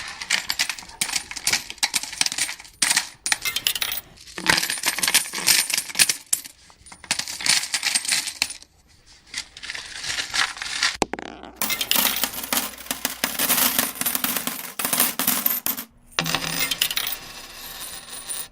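Coins clinking and jingling as money is counted, in dense bursts of one to three seconds with short pauses between them.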